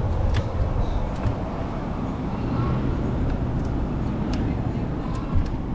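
Street traffic noise: a steady low rumble with a few faint clicks.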